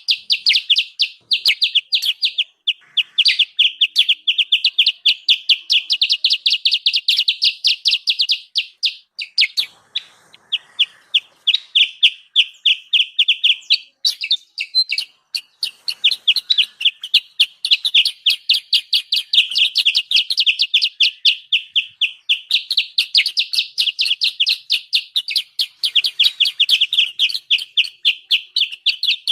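Kutilang sutra bird calling in a noisy, agitated run of rapid high chirps, about five a second, with brief breaks about ten and fifteen seconds in. It is a lure call meant to draw wild birds in.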